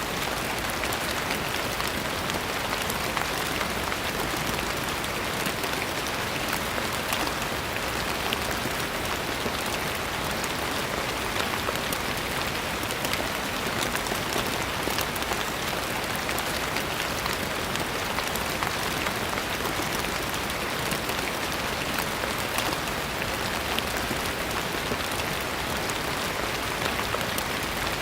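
Steady rain falling, a dense even hiss of drops pattering on a surface with no change in intensity.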